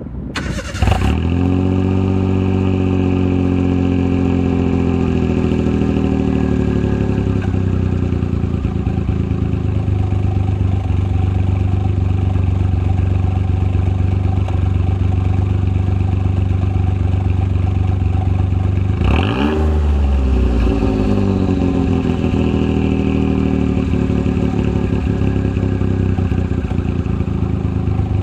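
Suzuki Alto Works RS-Z (HA21S) 660 cc three-cylinder turbo engine breathing through a Kakimoto GT-box 06&S aftermarket muffler: it starts about a second in and runs at a fast idle that eases down over the next few seconds. It then idles steadily, with one quick blip of the throttle about two-thirds of the way through that rises and falls back to idle.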